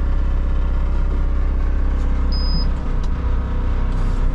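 Front-load garbage truck's engine running steadily, heard from inside the cab, with its low note shifting and growing rougher about three seconds in.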